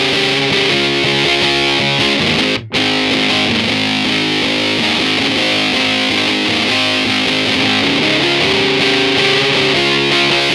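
Electric guitar played through a fuzz pedal with the gain set low, at about nine o'clock, giving a thick distorted tone. A brief cut in the sound about a quarter of the way in.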